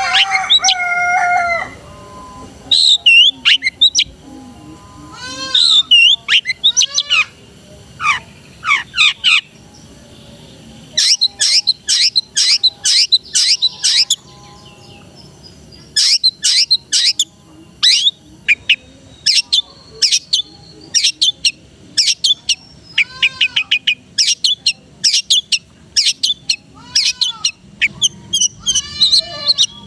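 Long-tailed shrike (cendet) singing: a held, stepped call at the start, then bursts of sharp, fast chirps and trills broken by short pauses, the varied, mimicking song that bird keepers value.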